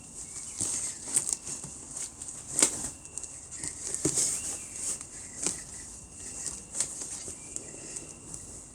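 Packing wadding and a cardboard box being handled: irregular rustling and crinkling with scattered soft taps and clicks as the wadding is pushed in around a lamp.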